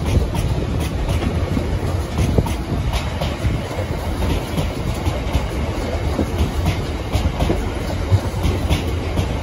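Freight train of bogie aggregate hopper wagons rolling past at close range: a steady low rumble of wheels on rail with repeated clickety-clack as the wheelsets cross rail joints.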